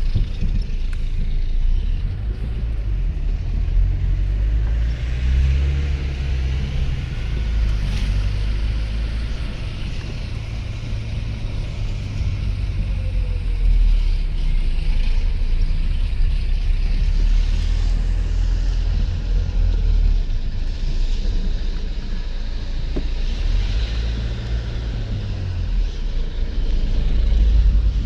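Steady low rumble with an even hiss above it, swelling and easing every few seconds.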